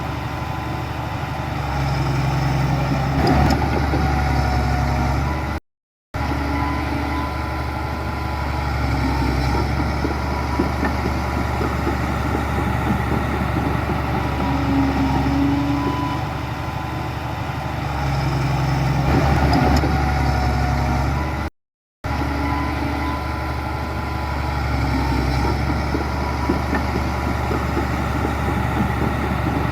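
Heavy diesel engine of earthmoving machinery running steadily. The sound cuts out briefly twice, about six seconds in and about twenty-two seconds in.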